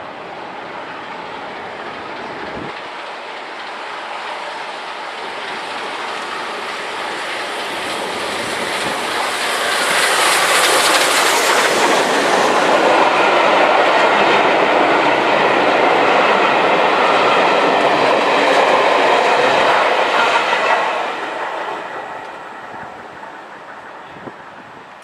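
A train passing by: the sound builds for about ten seconds, stays loud for about ten more, then drops away quickly near the end.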